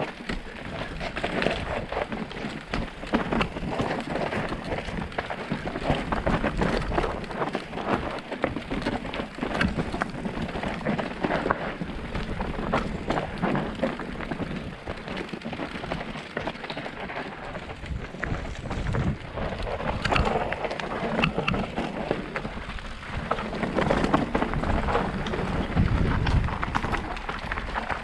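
Mountain bike riding fast over a rough, stony trail: tyres crunching over loose stones and the bike clattering with many small knocks, under a low rumble of wind on the microphone that swells near the end.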